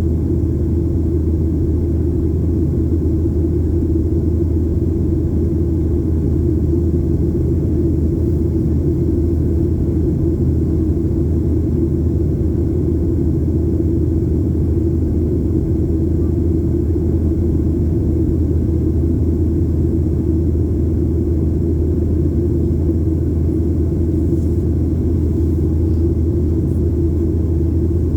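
Steady low drone of a Boeing 737-800's CFM56 engines and airflow heard inside the passenger cabin, with no change in pitch or level.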